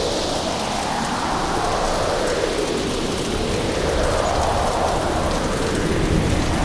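Hurricane storm: heavy rain pouring steadily, with wind that swells and eases every couple of seconds.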